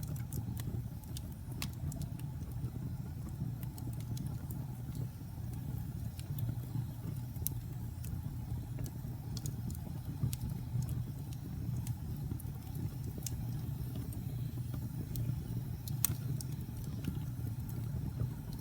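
Wood fire burning in a fireplace: a steady low rumble of flames with scattered sharp crackles and pops from the burning logs, a couple of louder pops standing out.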